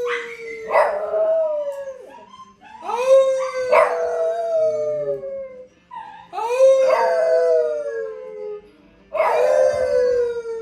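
Dog howling: a run of long drawn-out howls, each a couple of seconds long, sliding slowly down in pitch, one about every three seconds.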